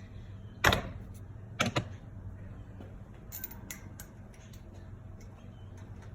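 Hand tools and parts being handled during spark plug work: two sharp knocks about a second apart, then a few light clicks, over a steady low hum.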